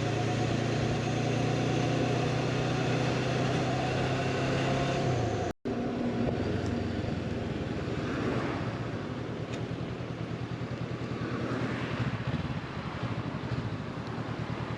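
Motorcycle engine running steadily while riding, with wind and road noise. About five seconds in the sound cuts out for an instant; after that the engine's steady hum is fainter and a rushing noise with slow swells takes over.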